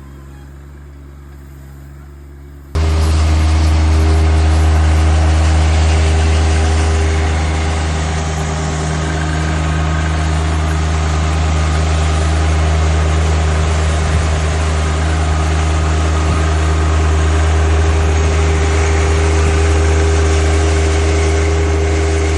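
A faint low hum, then about three seconds in the John Deere 2025R compact tractor's diesel engine comes in abruptly. It runs loud and steady at working speed while powering the hydraulic rotary broom.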